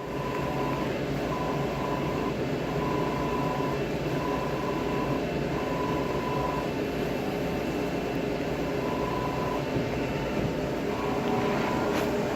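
A machine running with a steady hum. A whine cuts in and out irregularly over it, mostly for about a second at a time, with a short click near the end.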